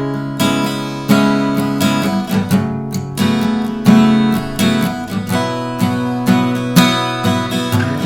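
Fortis FG-1000C dreadnought acoustic guitar, solid spruce top with laminated mahogany back and sides, strummed in chords, with a fresh strum every half second to a second.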